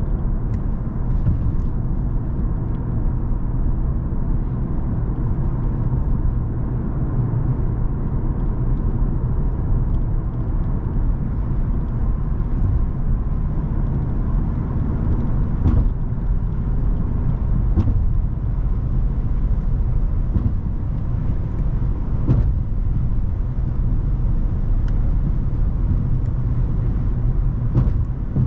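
Cadillac CTS with its 3.6-litre twin-turbo V6 driving at a steady pace: a constant low engine and road rumble, with a few faint clicks.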